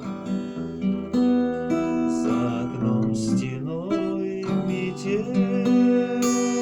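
Acoustic guitar strummed and picked as song accompaniment, with a singing voice holding a wavering note in the second half.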